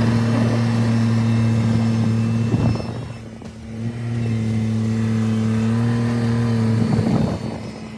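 Kubota tractor's diesel engine running steadily at working revs, easing off briefly about three seconds in and again near the end.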